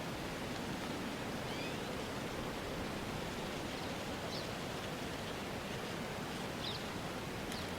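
Steady rushing outdoor ambience noise, with a few faint, short high chirps scattered through it.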